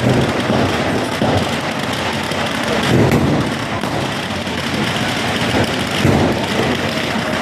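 Fireworks and bangers going off: several dull booms, at the start, after about a second, at about three seconds and at about six seconds, over a steady loud noisy din.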